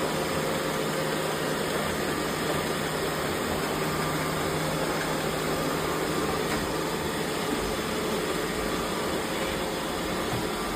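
Several robot vacuum cleaners running at once: a steady mix of suction noise and motor hum.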